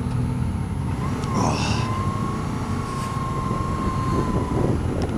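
Motorcycle engine running with wind rumble on the rider's camera mic. In the middle, a steady high tone holds for about three seconds over it.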